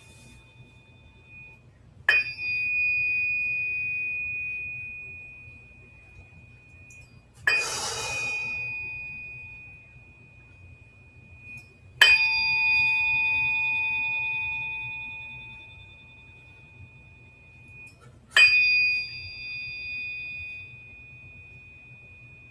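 Tuning forks struck four times, each one ringing with a clear high tone that fades away over several seconds; the second strike has a brief rattling edge and the third is the loudest. This is the practice of biofield tuning, sounding the forks to 'tune' energy.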